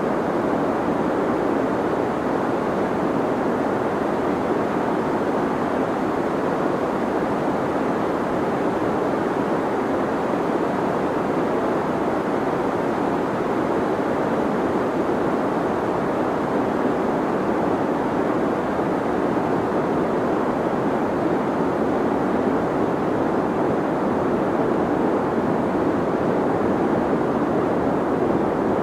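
Deep white noise played as a sleep sound: a steady, unchanging rush, strongest in the low middle with little high hiss.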